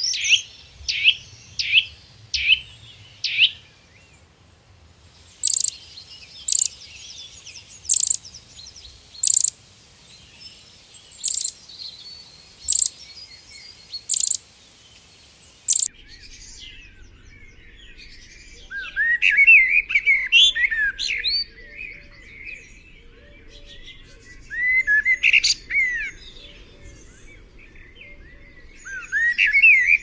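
Songbirds calling in a changing sequence. First a quick run of five falling chirps, then single sharp, very high notes about every second and a half. From about halfway, a busy chatter of short, varied calls comes in bursts.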